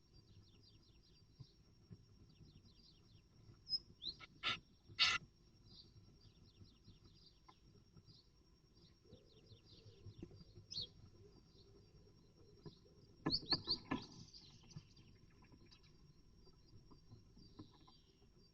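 Small birds chirping faintly in runs of short, quick high notes, heard in a great tit nest box. Two loud knocks come about four and five seconds in, and a cluster of knocks and scratches comes around thirteen to fourteen seconds. A faint steady high whine runs under it all.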